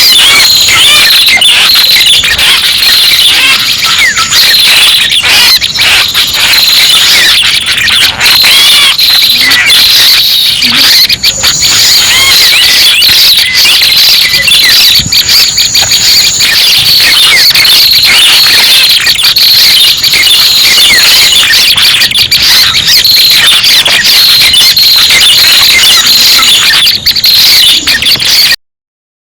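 Loud, unbroken stream of high, rapid chirps and trills from a recorded prenjak pala merah call, played as a bird-trapping lure, with a short complete dropout near the end.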